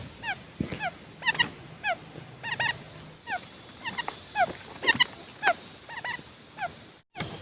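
Quail calling: short, clear notes that slide downward, repeated rapidly and often in quick pairs or triplets, with a brief break near the end.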